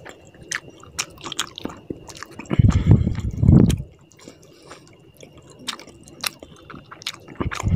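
Close-miked eating of rice and tilapia fish curry by hand: wet chewing and mouth clicks throughout, with a loud, low, muffled stretch of chewing from about two and a half to four seconds in. Fingers squish through the curried rice on the plate.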